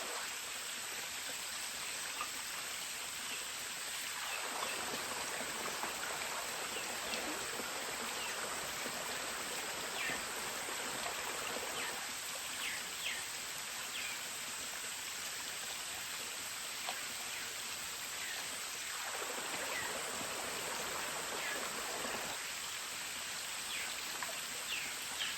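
Steady rush of running water, with a few faint high chirps.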